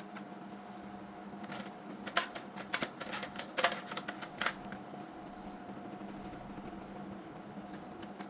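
A steady hum with a cluster of sharp clicks and light knocks from about two to four and a half seconds in.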